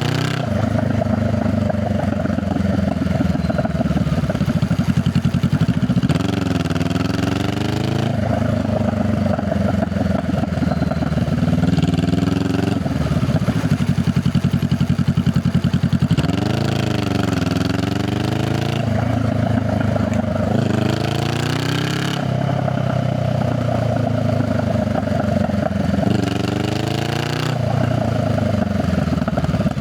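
Honda Rebel 500's parallel-twin engine and exhaust running under way, the pitch rising and falling several times as the throttle is opened and closed.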